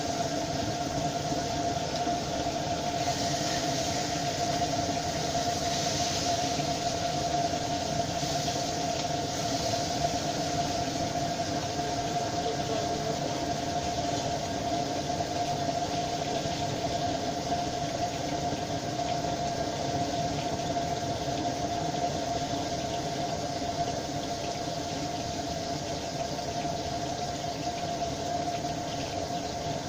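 Crucian carp frying in oil in a pan over a gas burner: a steady sizzle and hiss, with a steady tone running under it.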